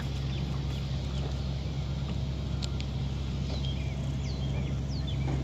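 A truck engine idling with a steady low hum. Several short, falling bird chirps sound over it.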